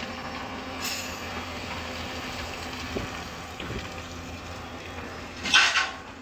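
Hyundai 220 HD excavator running steadily as it works, with a short, loud hiss about five and a half seconds in.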